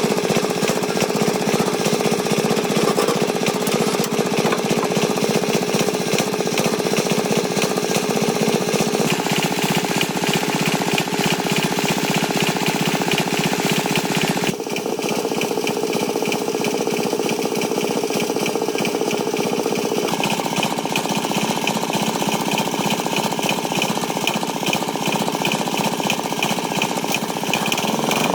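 Farm tractor engine running steadily with a rapid, rattling knock; its tone shifts abruptly a few times, with a slight drop in level about halfway through.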